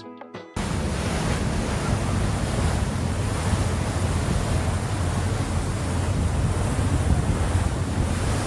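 Background music cuts off suddenly about half a second in, giving way to a steady rushing roar of wind on the microphone with a low rumble underneath.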